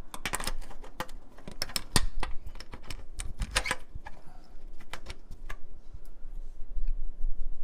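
Exhaust and tools being handled during a test fit: a quick, irregular run of light clicks and knocks over about the first four seconds, then a few scattered ones.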